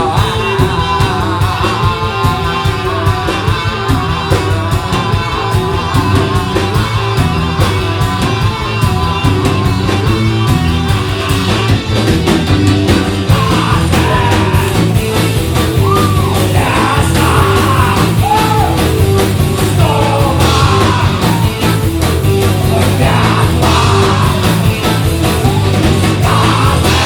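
Live rock band playing a loud instrumental passage with a steady driving beat; in the second half a lead line slides and bends in pitch over the band.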